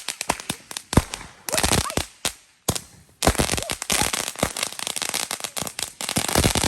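Fireworks and firecrackers going off in quick strings of sharp bangs. After a brief break about three seconds in, they give way to dense, rapid crackling.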